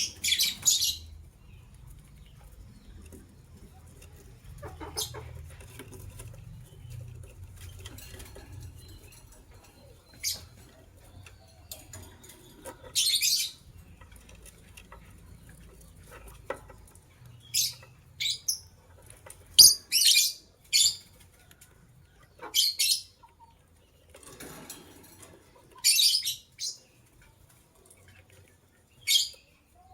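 White lovebirds chirping: about a dozen short, high-pitched calls, scattered at first and coming more often in the second half.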